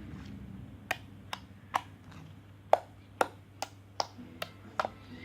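A series of about ten short, sharp clicks at uneven spacing, roughly two a second, over a low steady hum.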